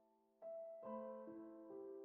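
Soft background piano music: a fading note, then a new chord struck about half a second in, with more notes following and ringing on.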